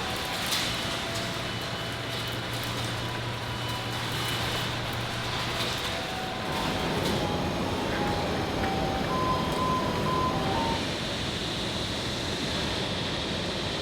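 Machinery running in a precast concrete slab plant: a steady mechanical din with a low hum through about the first six seconds, a few clicks near the start, and brief squeaky tones around the middle.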